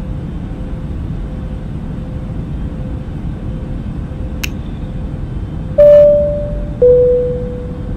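Steady low rumble of an airliner cabin in flight. About six seconds in, a two-tone cabin chime sounds, a higher note then a lower one, each fading away.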